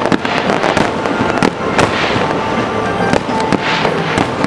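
Aerial fireworks display: shells bursting in a quick series of sharp bangs, about five or six in four seconds, over continuous crackling. Music plays underneath.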